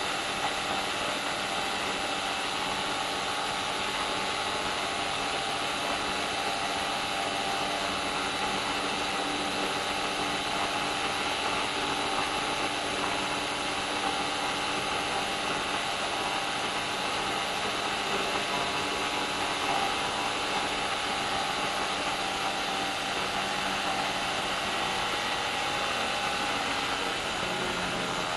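Black Devil Corsair M25Y 172 cc two-stroke paramotor engine, fitted with a Vortexaero exhaust pipe, running steadily at constant throttle with its propeller.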